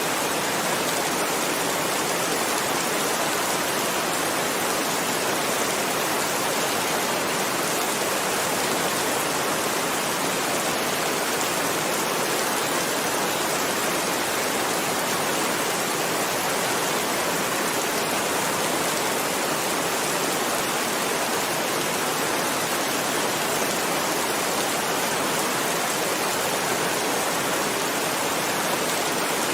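Heavy rain falling steadily: an even, unbroken hiss with no thunder and no change.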